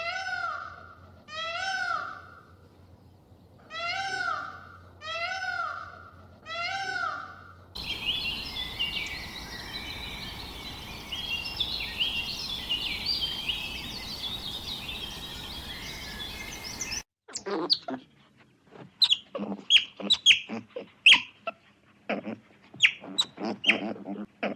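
Animal calls in three abruptly cut segments. First come repeated drawn-out calls in pairs, each about a second long and arching in pitch. From about eight seconds a dense chorus of many small birds chirping takes over. From about seventeen seconds there are short, sharp calls at irregular intervals.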